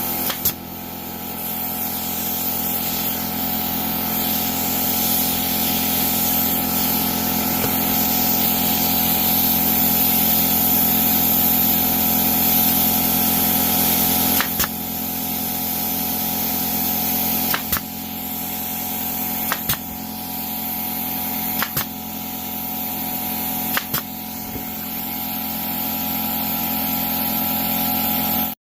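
Steady machine drone from shop equipment, with a handful of sharp clicks spaced about two seconds apart in the second half, as nails are driven to tack the bird feeder base together. The drone cuts off abruptly at the very end.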